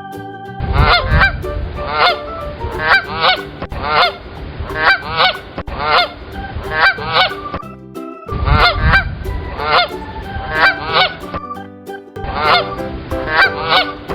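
Domestic goose honking over and over in quick, loud series, in three runs broken by short pauses.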